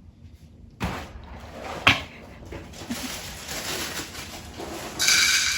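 Household handling noises: a thump about a second in, a sharp click about two seconds in, then a rustling noise that grows louder near the end.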